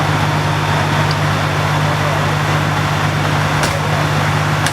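Fire apparatus engine idling, a steady low drone that does not change.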